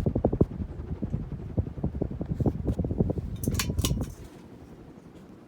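Air from a running 52-inch Classic Concepts spinner ceiling fan buffeting the microphone in rapid, uneven low thumps. A few sharp clicks come about three and a half seconds in, and the buffeting stops just after four seconds, leaving a faint hum.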